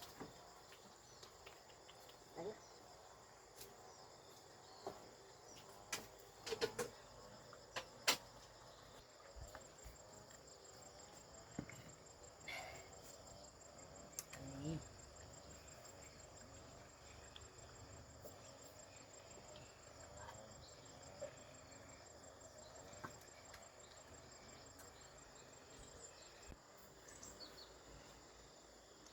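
Insects trilling steadily, a thin high continuous buzz, with occasional light knocks and clicks, most of them in the first half.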